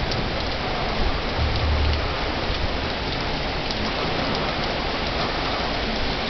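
Heavy rain falling steadily, with scattered drop ticks and a brief low rumble about one and a half seconds in.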